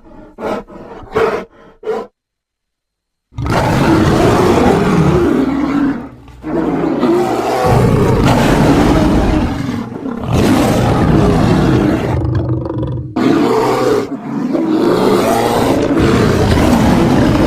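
Bear roar sound effects layered from grizzly, black bear and polar bear recordings: a run of short, quick calls, a moment of silence, then four long, loud roars with brief gaps between them.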